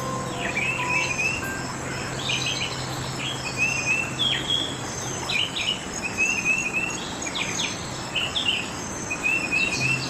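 Several songbirds chirping and calling, with short quick trilled phrases repeated again and again. A low steady hum sits underneath and fades out about halfway through.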